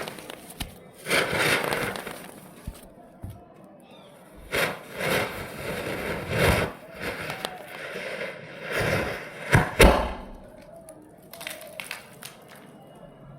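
Leftover firecrackers going off: several hissing bursts each about a second long, with a few sharp pops and one loud crack near ten seconds in.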